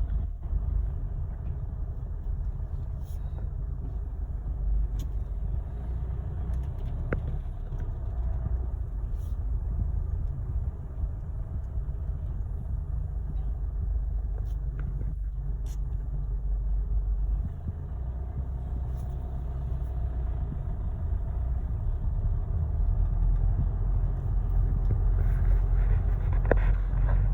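Steady low rumble of a motor vehicle engine running, growing louder near the end.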